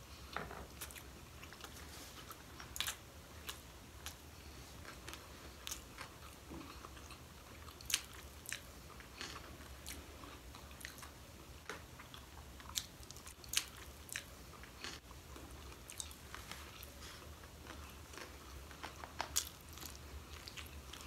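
People chewing maki sushi rolls, with soft wet mouth sounds and scattered short clicks and smacks.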